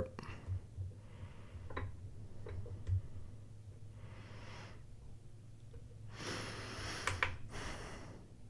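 Person breathing near the microphone in three soft breaths, the longest near the end, with a few small clicks and taps from handling the sharpness tester and knife.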